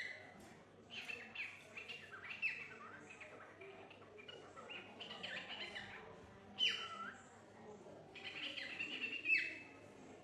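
Parrot chirping and whistling in clusters of short notes, with a few quick downward-sliding whistles, the loudest ones about two-thirds of the way in and near the end.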